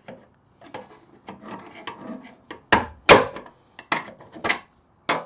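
Hand tools working a stuck pin out of a Jeep XJ door hinge, with metal scraping and rubbing. About three seconds in come two sharp knocks, then a few lighter clicks as the pin gives way.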